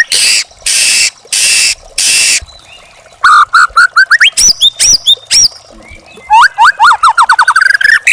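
Young wild white-rumped shama singing: four harsh rasping notes in a row, then, after a short pause, a fast run of varied whistles and sweeping notes ending in a rapid series of rising slurs.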